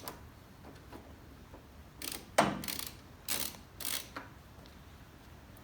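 Ratchet wrench clicking in four short bursts, starting about two seconds in, while fasteners are worked loose to take apart a tractor's steering column.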